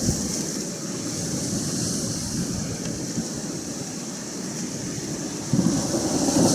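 Atlantic surf and wind: a steady low rumble of waves, swelling suddenly louder near the end as a wave breaks.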